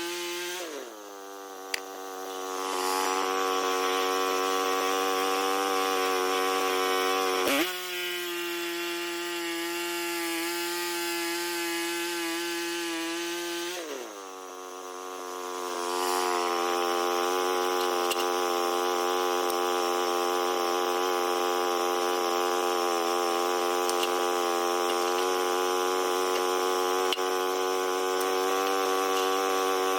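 Small sawmill's engine running steadily while the blade cuts wood. The engine note drops sharply and settles three times, about a second in, near eight seconds and near fourteen seconds, and over the second half a steady hiss of cutting rides on top.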